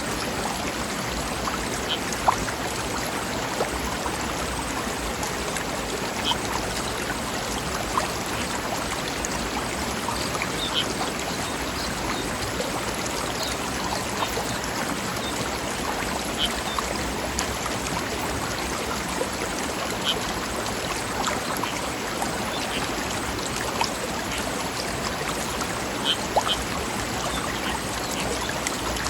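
Forest river or stream rushing steadily over rocks, with a few brief, sharper splashes standing out now and then.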